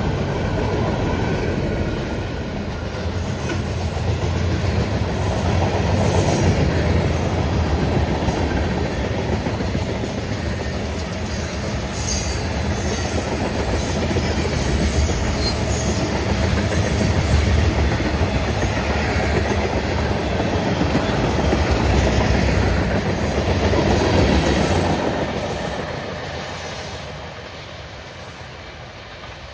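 Freight train's cars rolling past on the rails, a steady heavy rumble of wheels on track that fades away over the last few seconds as the end of the train moves off.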